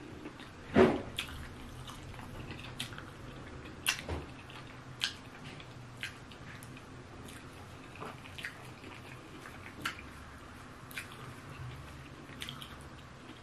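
Mouth sounds of eating eba and egusi soup by hand: scattered wet smacks and clicks of chewing, roughly one a second, the loudest about a second in.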